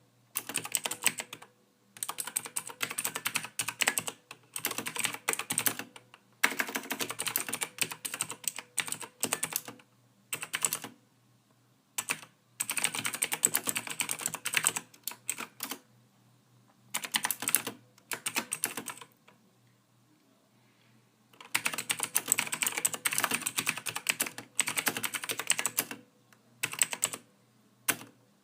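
Computer keyboard typing: quick runs of key clicks broken by several short pauses, the longest about two seconds, a little over two-thirds of the way in.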